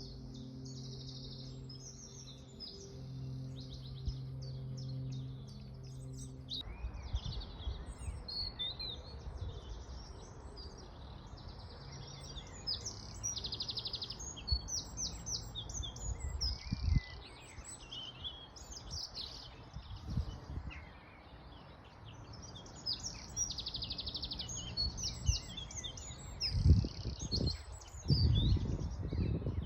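Several songbirds singing and chirping, their calls overlapping continuously. A steady low hum sounds under them for the first six or seven seconds and then stops abruptly. Low rumbling thumps come near the end.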